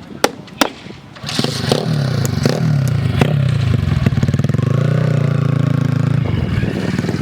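Three sharp clicks, then a small motorbike engine, most likely a pit bike's, starts a little over a second in and runs, its pitch rising and falling slightly with the throttle.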